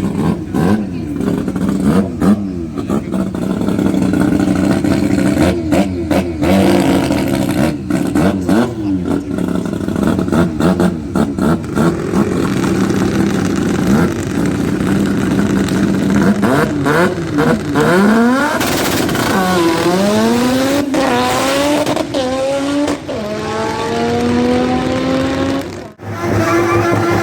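Rotary-engined drag cars revving with sharp, rapid crackling pops. Later a car accelerates hard, its engine pitch climbing and dropping back several times as it shifts up through the gears.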